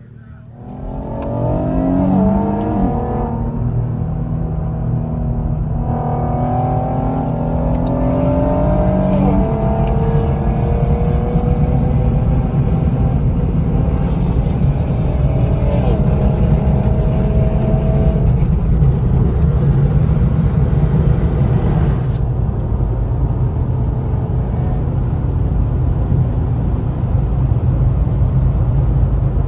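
Car engine accelerating hard, its pitch climbing and falling back at gear changes a couple of seconds in and again about nine seconds in. Then a steady loud drone of engine, road and wind noise at speed.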